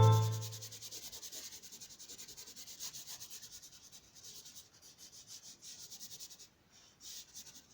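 Background music fading out at the start, then faint, quick rubbing strokes of a drawing tool on paper, with a short pause and one last stroke near the end.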